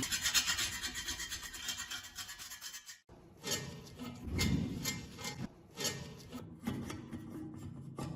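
Hand scrubbing or rasping on the rusty metal of an antique kerosene lamp, as in rust removal: about three seconds of fast back-and-forth strokes, a brief pause, then slower single strokes about a second apart.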